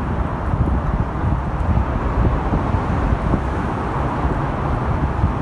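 Steady howling traffic noise from the US 101 freeway overhead, a dense continuous rush of passing vehicles.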